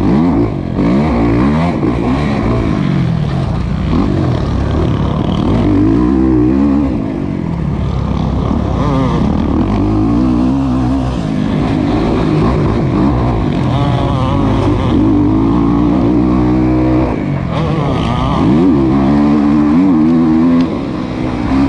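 Kawasaki KX450's four-stroke single-cylinder engine revving hard and backing off over and over as the motocross bike is ridden around the track, its pitch climbing and falling with throttle and gear changes.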